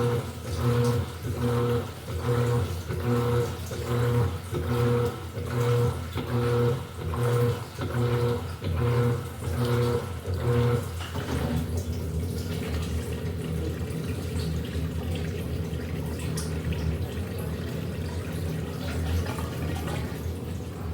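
Electrolux LED14 14 kg washing machine washing: the motor hums in short, even strokes, about one and a half a second, with water sloshing. About halfway through the strokes stop and a steady water noise takes over.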